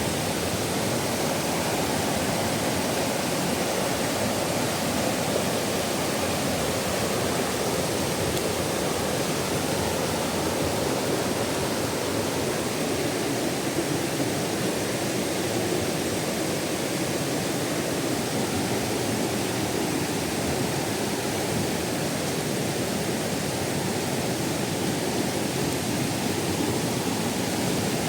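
Waterfall rushing steadily, a dense even roar of falling water.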